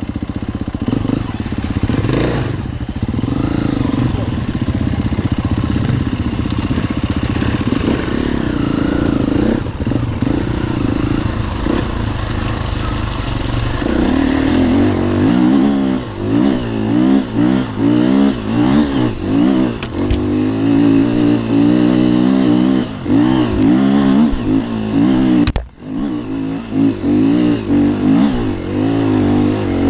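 Enduro dirt bike engine running close by, steady at first, then revved up and down over and over from about halfway as the rider works the throttle, with one brief drop in sound near the end.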